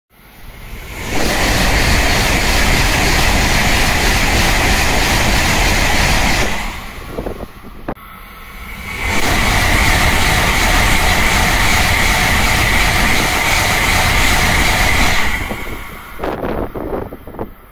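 Two Tokaido Shinkansen trains passing at high speed one after the other, each a loud rushing pass-by with a hiss of rolling and wind noise lasting about five seconds. The second train arrives just after the first has faded, about halfway through.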